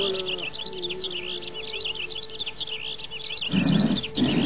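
Birds chirping rapidly and continuously, high-pitched and repeated several times a second, over a low held note that glides and fades out. About three and a half seconds in, a louder rough noise starts.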